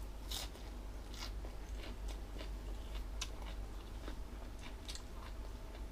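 Close-up chewing of crunchy jellyfish, a run of irregular crisp crunches and clicks.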